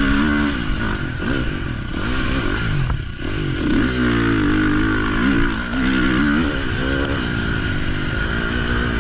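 Dirt bike engine revving up and down repeatedly as the throttle is worked and gears change, with a brief drop about three seconds in.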